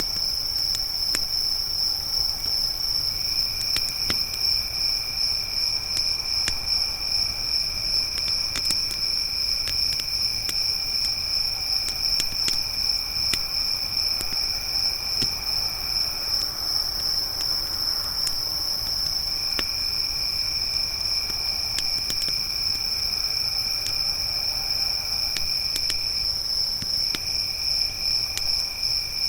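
Crickets chirping in a continuous high-pitched trill, with a second, lower trill that breaks off twice, once about sixteen seconds in and again near the end. Campfire crackling underneath with scattered small pops.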